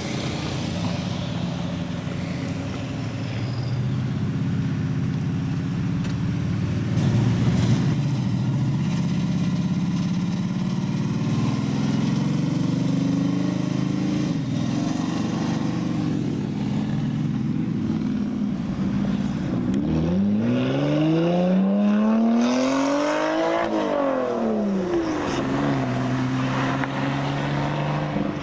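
Car engines running as cars drive slowly past in a line. About two-thirds of the way through, one engine revs up sharply and drops back, then settles to a steady note.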